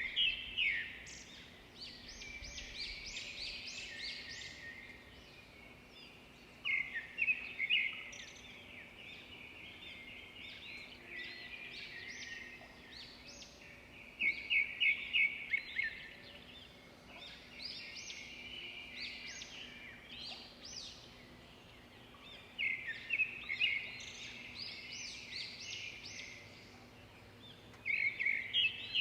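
A songbird singing outside, repeating a short phrase of rapid chirping notes about every six to seven seconds, over faint background noise.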